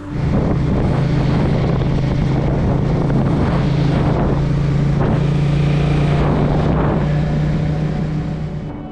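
Motorcycle engine running at a steady speed under loud wind noise on the microphone, with a few gusts, fading near the end.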